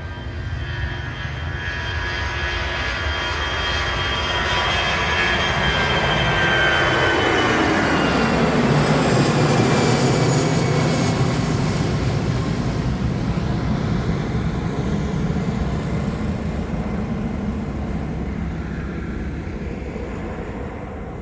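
Airplane engines during a takeoff pass. The engine noise builds to a peak about halfway through, then slowly fades, and the whining tones fall in pitch as the aircraft goes by.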